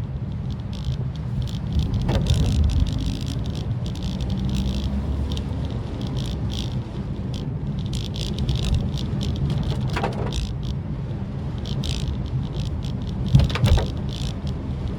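Maruti Suzuki Swift Dzire driving in rain: a steady low road and engine rumble with an irregular patter of rain ticking on the car. There are a few louder knocks about ten seconds in and near the end.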